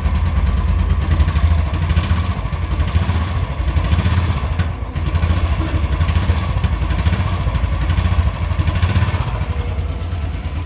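Royal Enfield Classic 350 BS6's fuel-injected single-cylinder engine idling with a steady low pulse, dipping briefly just under halfway.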